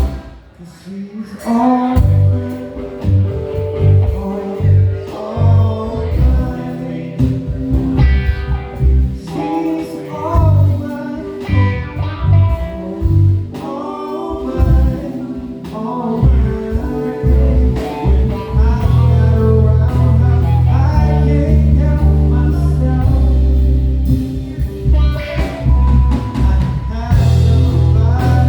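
Live soul band playing an instrumental passage: bass, drums and keyboard with a melodic lead line over them. The music drops back briefly at the start and comes in full again about two seconds in.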